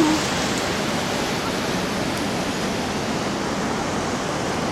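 A waterfall pouring steadily, a full, even rush of water, swollen with a lot of water after heavy rain.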